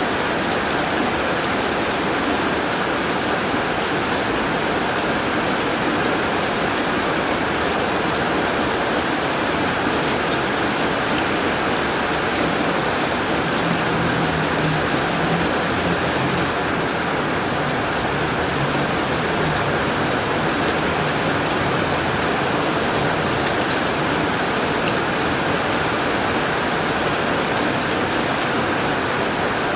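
Rain falling steadily on a tin roof, a dense even patter with individual drops ticking sharply on the metal.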